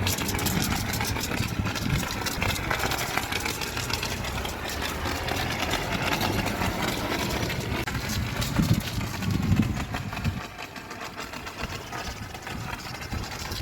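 An engine running steadily at idle, dropping quieter about ten seconds in.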